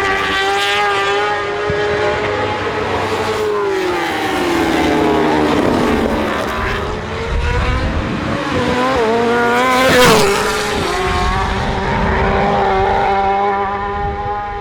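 BMW superbike inline-four engine at high revs under race conditions, its pitch sliding down and back up through shifts and passes, with a sharp rise and fall about ten seconds in. The sound starts fading near the end.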